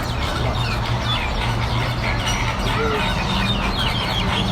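Many birds in a large zoo aviary calling and chirping at once, a dense, overlapping chorus of short calls. A steady low hum runs underneath.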